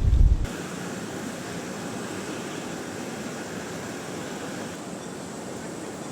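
Wind buffeting the microphone cuts off about half a second in, leaving a steady, even rushing background noise.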